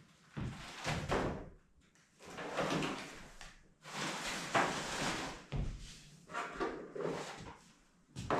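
Camping sleeping gear being handled and set up: about six short rustling, whooshing bursts, each under a second or so, with brief pauses between them.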